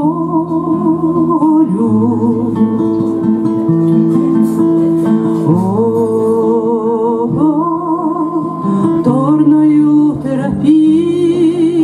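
A woman singing a slow Russian song in long, held notes with vibrato, accompanied by acoustic guitar.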